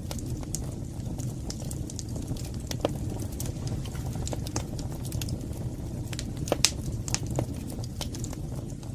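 Wood fire burning in a fireplace: a steady low rumble of flames with scattered sharp crackles and pops, the loudest pop about six and a half seconds in.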